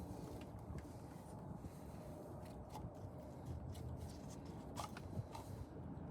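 Faint scattered clicks and light handling noises over a low steady background rumble, with a couple of slightly sharper ticks near the end.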